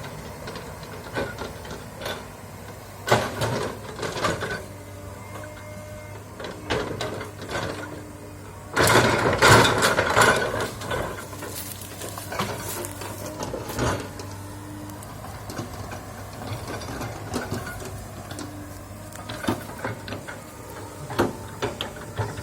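Komatsu excavator working in land clearing: a steady engine hum under repeated sharp clicks and knocks, with a loud burst of cracking about nine seconds in.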